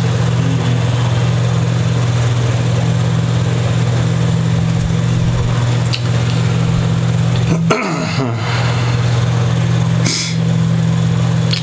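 Steady low mechanical hum with an even background hiss, briefly interrupted twice near the end.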